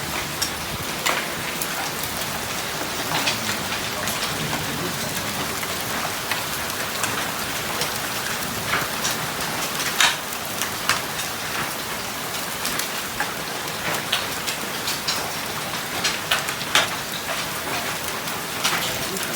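Heavy rain hissing steadily, with hailstones striking hard surfaces in irregular sharp clicks.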